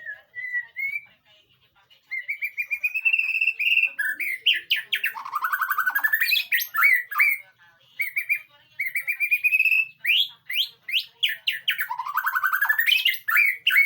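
White-rumped shama (murai batu) singing: phrases of rising whistled notes and rapid sweeping trills, broken by short pauses about two seconds in and again about eight seconds in.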